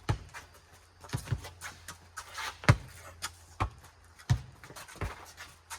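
A rubber playground ball being bounced and hit in a four square rally: a string of sharp thuds from the ball striking the ground and players' hands, irregularly spaced about half a second to a second apart.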